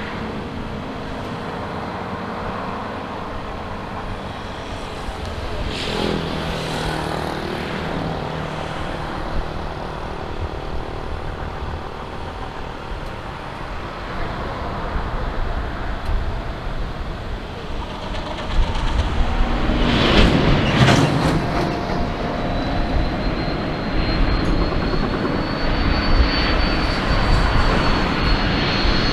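Jet airliner engines running at the airfield, a steady drone with a few held tones. Two brief louder swells come about 6 and 20 seconds in. A high whine sets in about 23 seconds in and keeps rising slowly as the engines spool up.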